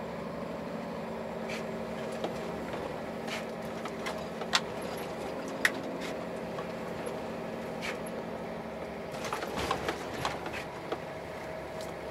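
Scania truck's diesel engine running steadily under load as the empty rig pulls up a snowy grade, with a few sharp clicks now and then.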